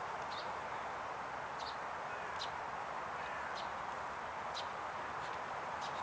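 Small birds giving short, high chirps about once a second, over a steady background hiss.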